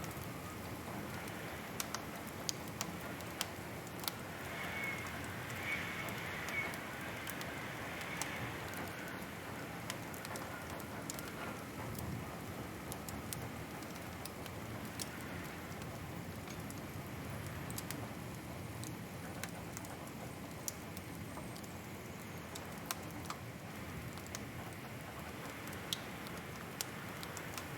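Wood fire crackling: a steady low rush of burning with scattered sharp pops and snaps, and a brief brighter hiss from about four to nine seconds in.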